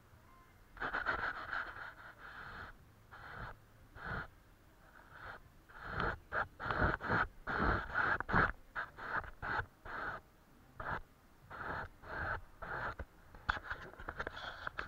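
Paintbrush strokes on paper: a series of short brushing swishes, coming faster, about three or four a second, in the middle.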